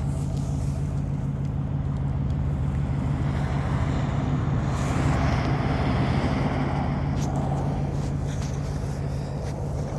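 Steady low engine hum, with a motor vehicle passing that swells to its loudest about five seconds in and fades away.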